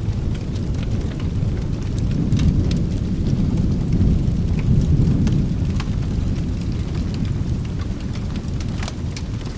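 Rolling thunder rumbling over steady rain, building about two seconds in, peaking around four to five seconds and then easing off. Scattered sharp clicks run through it.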